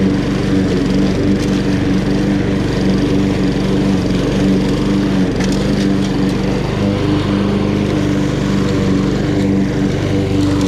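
Honda HRN216 walk-behind lawn mower's GCV170 single-cylinder four-stroke engine running steadily while cutting grass.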